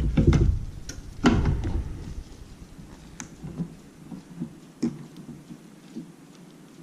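Handling knocks and clicks of plastic guitar picks and a pry tool being worked under the glass of an iPad mini: two heavier thumps in the first two seconds, then scattered light taps and clicks.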